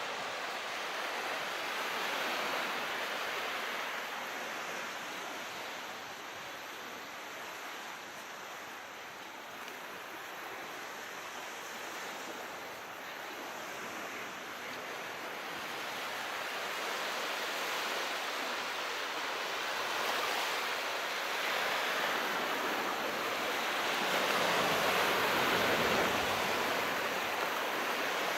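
Sea surf washing in, a steady rush of water that swells and eases slowly, with the biggest swell near the end.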